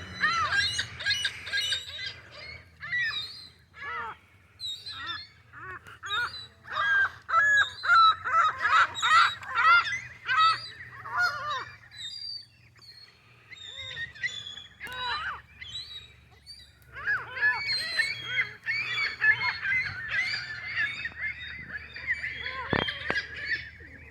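A flock of Canada geese honking, many short calls overlapping, thinning out for a few seconds in the middle before picking up again.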